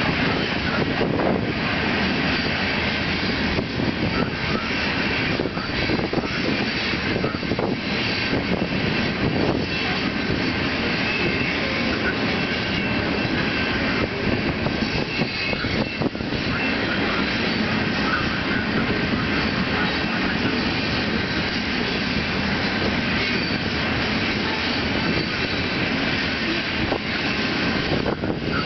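Train passing close by: a loud, steady rumble and rattle of wheels on rails that keeps on without a break.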